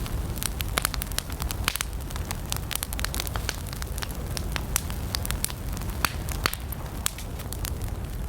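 Wood campfire burning: dense, irregular sharp crackles and pops over a steady low rumble of flames.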